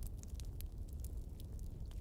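Campfire crackling: scattered sharp pops and snaps, several a second, over a low steady rumble.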